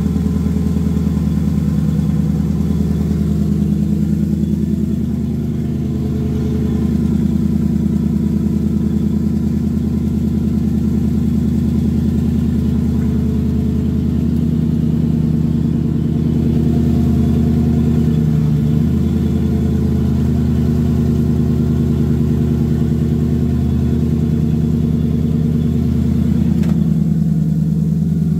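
Turbocharged Infiniti Q45 twin-cam V8 idling steadily, with small wavers in its note now and then.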